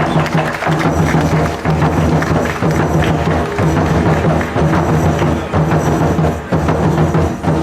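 Percussion music: drums struck in a fast, steady rhythm, with sharp clacking strikes like a wood block over a repeating low beat.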